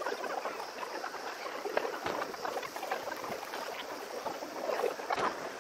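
Sped-up recording of a fireworks show: a dense, crackling jumble of distant shell bursts and background noise, with sharper cracks about two seconds in and again near the end.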